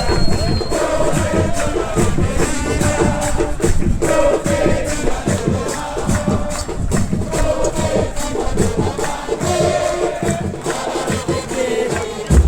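Football supporters singing a terrace chant together over steadily beating drums and percussion.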